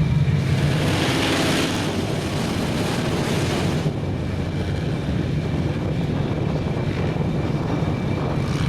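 Big mud truck engine running with a steady low drone. A loud rushing hiss rises over it from about half a second in and stops a few seconds later.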